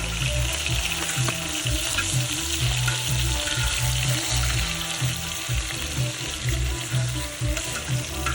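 Eel pieces frying in hot pork fat in a cast-iron cauldron, a steady dense sizzle, over a low uneven rumble.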